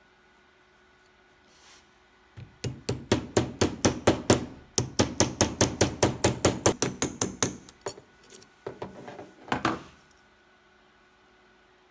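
Hammer striking silver in a quick, even run of about five blows a second, with a short break partway through, then a few scattered taps.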